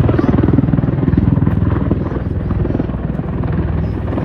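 Aircraft flying overhead, a loud, steady drone made of rapid even pulses, easing off slightly in the second half.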